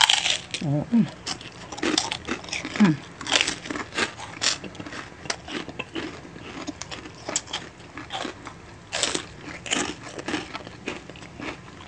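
Crispy pork rinds (chicharon) bitten and chewed close to the microphone: loud, irregular crunching and crackling throughout.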